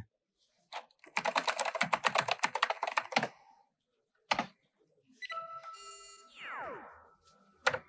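Rapid typing on a computer keyboard for about two seconds, with single key clicks before and after. It is followed by electronic tones with a few falling sweeps.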